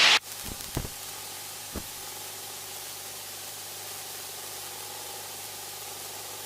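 Steady hiss of a small airplane's cockpit intercom audio feed, with a faint steady hum underneath. A few soft clicks come in the first two seconds.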